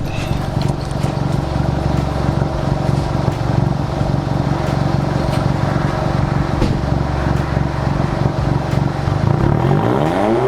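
VW Mk7 GTI's turbocharged 2.0-litre four-cylinder running loud through a catless straight downpipe with the muffler deleted, idling steadily once warmed up. Near the end the revs begin to climb.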